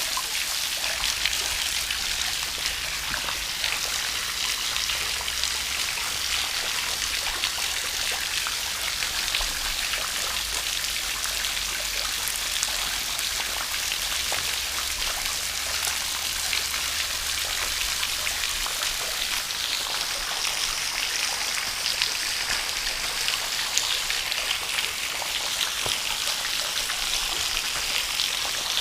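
Steady spatter of water drops falling onto rock and into shallow pooled water, a dense run of small drop-ticks over a trickling stream.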